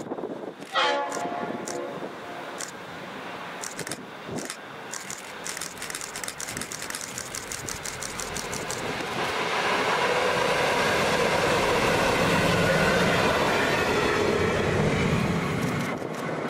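Diesel locomotives sound a short horn blast about a second in, then approach and pass. A run of quick clicks comes through as they near, and then the rumble of engines and wheels on rails builds to its loudest as they go by in the second half.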